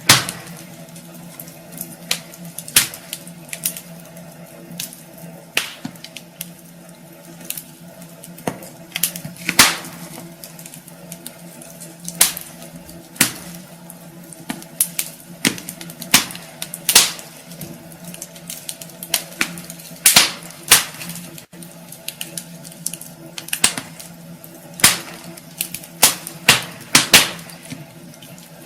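Wood fire burning in a fireplace, crackling with irregular sharp pops and a few louder snaps, over a faint steady low hum.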